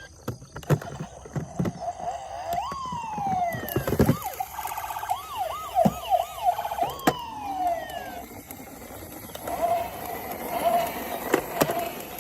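Toy emergency vehicle's electronic siren sounding: a slow rising-and-falling wail, then a run of quick yelps, then a wavering tone, mixed with sharp clicks and knocks.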